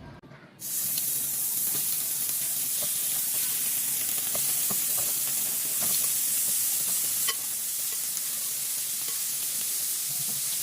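Food sizzling in a hot frying pan. The sizzle starts abruptly just under a second in and runs steadily, with scattered small pops and crackles.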